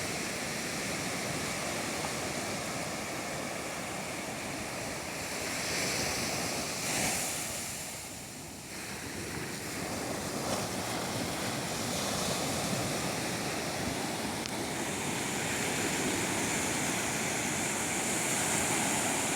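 Ocean surf breaking and washing up the beach: a continuous rush of water that swells and eases with each wave, with a brief lull about eight seconds in.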